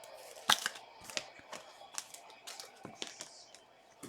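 Trading cards and pack wrappers being handled: quick, scattered clicks, snaps and rustles, the sharpest about half a second in.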